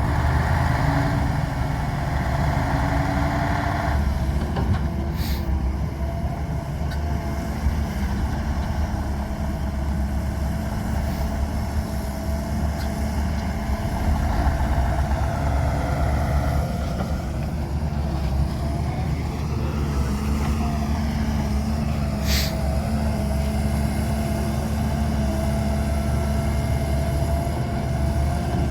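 Heavy diesel machinery running steadily while an excavator loads mud into a tractor trolley: a deep engine hum with a whining tone over it that shifts in pitch a few times. There are two brief sharp clicks, one early and one about two-thirds of the way through.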